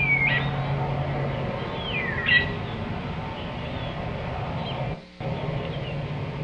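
Birds calling: two short calls that slide down in pitch, one at the start and one about two seconds in, then a few fainter chirps. Under them runs a steady low hum and outdoor background noise, and the sound drops out briefly about five seconds in.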